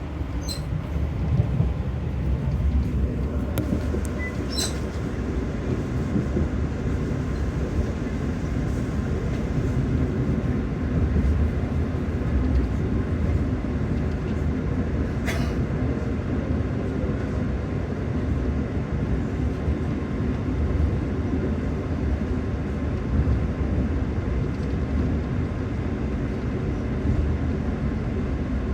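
Passenger train running along the track, a steady low rumble with a few brief high clicks.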